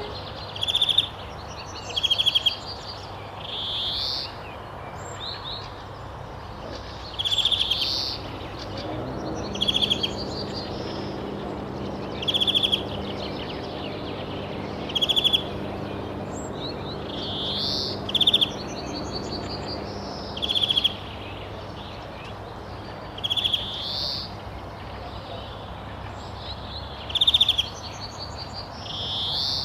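Birds calling: short, rapidly pulsed high trills repeat every two to three seconds, alternating with rising, sweeping calls, over a faint steady background hum.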